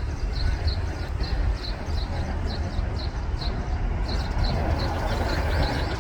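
Steady low outdoor rumble with an even run of short, high chirps, about three a second.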